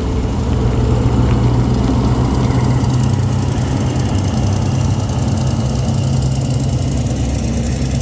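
Diesel train engine running steadily, a low hum with a constant pitch.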